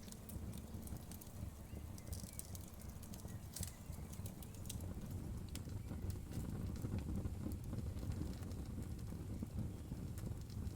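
Wood fire burning in a fireplace: a steady low rumble of flames with sharp crackles and pops, thickest for a few seconds near the start.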